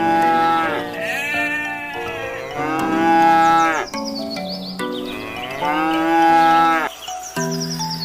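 Cow mooing several times, long calls that each fall away at the end, over background music with a stepping melody.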